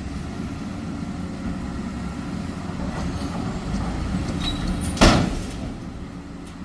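Dump truck's diesel engine running with a steady low rumble as it dumps its load, growing slowly louder. About five seconds in there is one short, sharp, loud burst.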